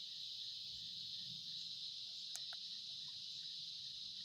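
A steady, high-pitched chorus of insects, an unbroken drone, with a couple of faint clicks a little past halfway.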